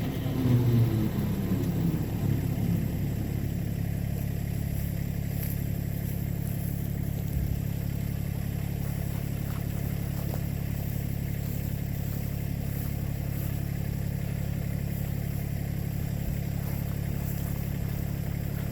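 Massey Ferguson 1725 compact tractor's diesel engine running at a steady speed, a little louder and busier in the first couple of seconds, then an even hum.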